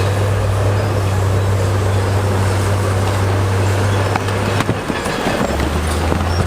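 Heavy earthmoving machine's diesel engine running steadily, with a few knocks about four to five seconds in, while the engine note briefly drops out.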